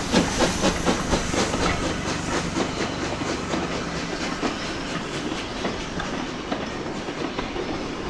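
Vintage passenger coaches of a steam-hauled train rolling slowly past, a steady rumble with scattered wheel clicks over rail joints. The locomotive's regular exhaust beats fade out within the first second.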